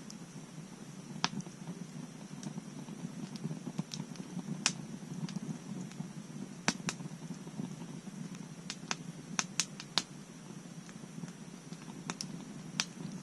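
Wood bonfire crackling: irregular sharp pops and snaps, about a dozen, over a low steady rumble of the burning fire.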